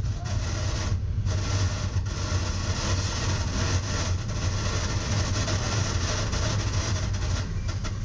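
Steady running noise of a Metra commuter train heard from inside its cab car, over a constant low hum.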